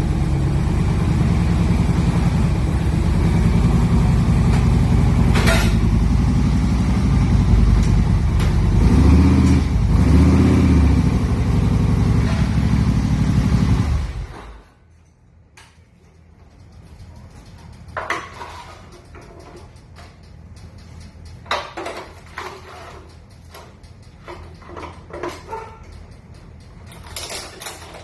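Motorcycle engine running, swelling louder twice in quick succession about nine and ten seconds in, then cut off abruptly about halfway through. Afterwards, scattered sharp clicks and clunks, thicker near the end.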